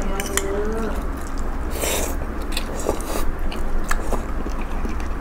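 Mouth sounds of people eating: biting and chewing food, with scattered small clicks and a brief rustle about two seconds in.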